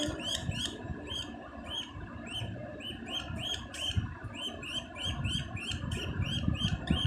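Budgerigar chick chirping, a steady run of short, high calls about three or four a second, over a low rumble.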